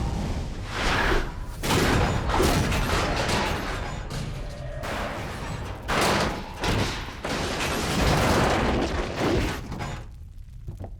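Film sound effects of an atomic blast's aftermath: a run of heavy crashes, rumbles and debris impacts, with some music under them. The crashes thin out near the end.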